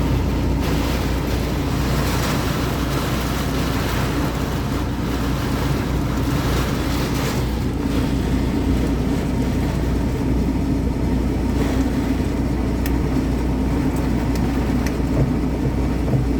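Heavy rain beating on a semi-truck's cab, heard from inside as a steady hiss over a constant low rumble.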